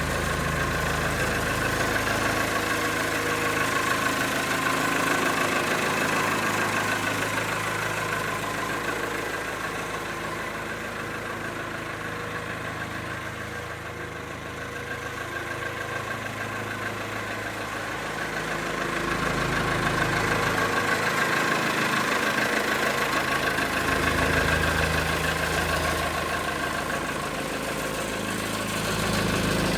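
JCB 3CX backhoe loader's diesel engine running steadily at idle, growing a little quieter in the middle and louder again near the end.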